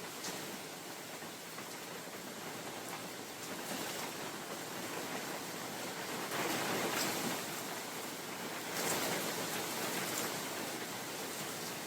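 Rain falling on a forest, a steady hiss with scattered sharper drop ticks, while wind gusts through the trees swell it louder twice, about six and nine seconds in.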